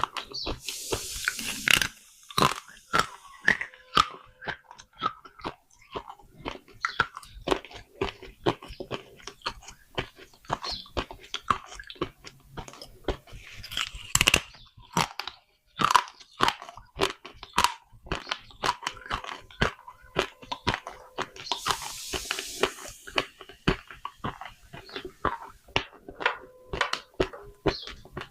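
Someone biting and chewing small baked clay pots: dense, sharp crunches, several a second. There is a brief gritty hiss near the start and again about two-thirds of the way through.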